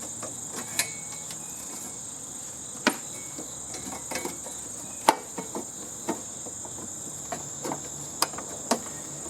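Crickets chirring in a steady high drone, with irregular sharp knocks and clinks of hand tools on metal from a heating and air-conditioning unit being taken apart for scrap; the loudest knocks come about three and five seconds in.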